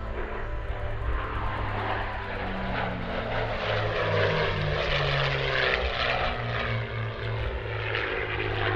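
Two P-51D Mustangs flying past in formation, their Rolls-Royce Merlin V-12 engines and propellers running loud. The sound grows louder over the first few seconds and stays loud.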